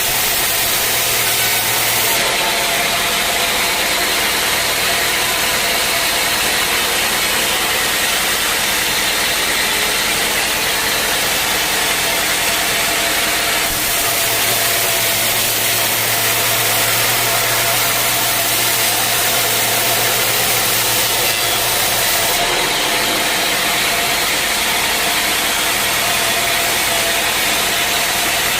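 Sawmill machinery running steadily: a constant hissing mechanical noise with a faint steady whine, whose character changes abruptly about 2, 14 and 22 seconds in.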